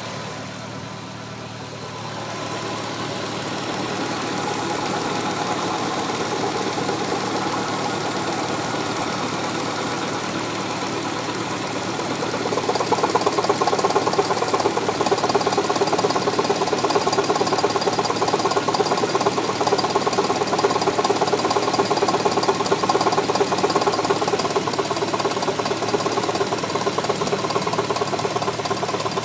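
2003 Hyundai Tiburon GT's V6 engine running, with a rapid, even knocking from the engine that grows louder about twelve seconds in. The owner says the knock comes and goes for a few seconds at a time, and its cause is undiagnosed.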